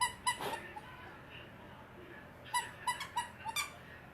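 Squeaky dog toy being chewed by a dog, giving short high squeaks in quick clusters: about three at the start and four more about two and a half seconds in.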